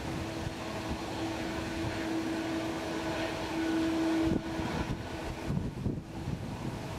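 Jet engines of a landing Boeing 777-200: a steady rushing noise with a held humming tone, which breaks off with a click a little past four seconds in and comes back near the end.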